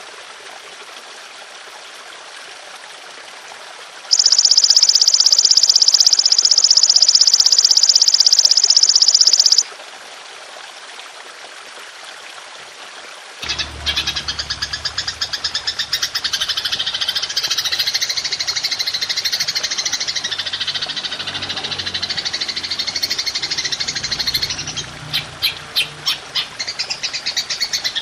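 Belalang emas (golden grasshopper) insect call used as songbird training audio: a loud, dense buzzing trill for about five seconds over a faint steady trickle of water. About halfway through a different rhythmic, pulsing buzzing chorus begins with a low rumble beneath it, with a short run of sharper pulses near the end.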